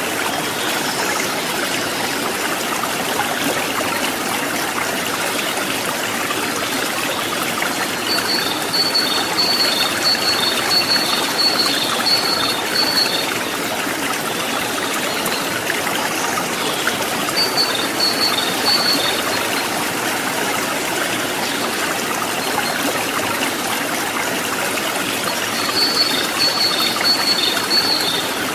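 Stream water rushing and trickling over rocks in a steady, unbroken wash. A high, rapid trill of short notes comes and goes three times over it.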